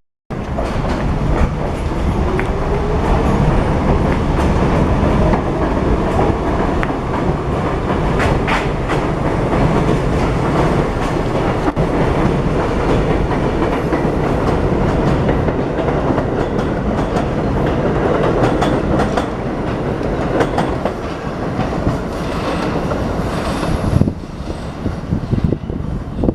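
New York City subway train running through the station, its wheels clattering steadily over the rail joints, with a faint whine rising in pitch over the first several seconds.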